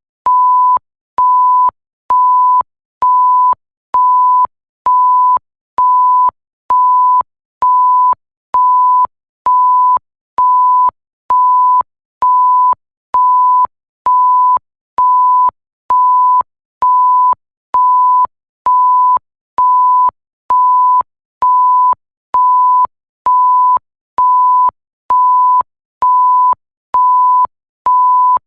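Censor bleep sound effect: a pure tone at one steady pitch, beeping on and off in a regular rhythm, each beep a little over half a second long with short gaps between, a slight click at each start and stop.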